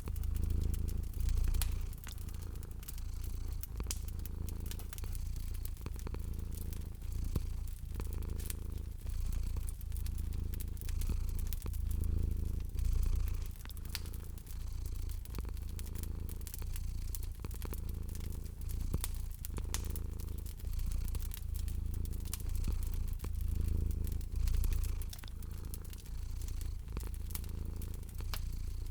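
A cat purring steadily, the low rumble swelling and easing with each breath, over the scattered snaps and pops of a crackling fireplace.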